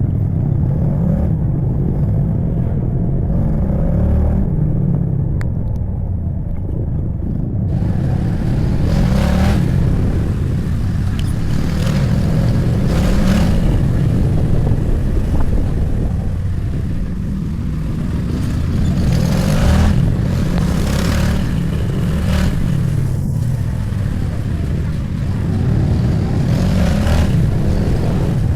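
Motorcycle engine and road noise while riding, a steady low rumble throughout. About a quarter of the way in, a hiss joins it and swells and fades several times, as traffic goes by.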